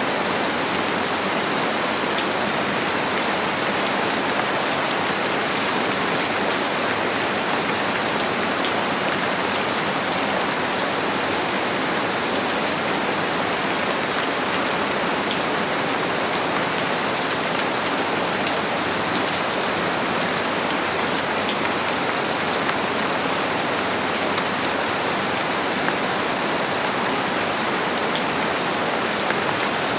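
Steady heavy rain falling on a surface, a dense even hiss with many fine drop taps and no thunder.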